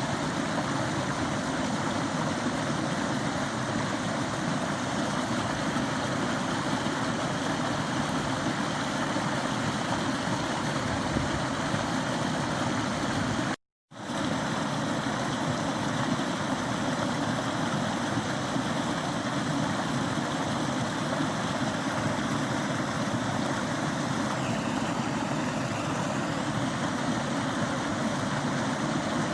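Forest stream running: a steady rush of flowing water, cut off abruptly for a split second about halfway through.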